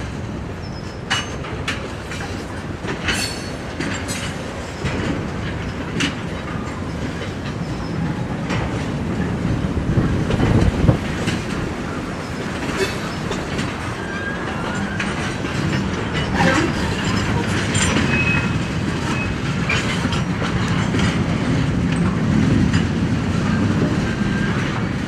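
Freight train of tank cars and covered hoppers rolling past, its wheels clicking and clanking over the rail joints over a steady rumble. A few short high wheel squeals come in around the middle, and the sound slowly grows louder toward the end.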